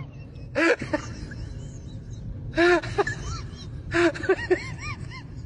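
Short vocal calls, each rising and falling in pitch, coming in three or four groups over a steady background hiss.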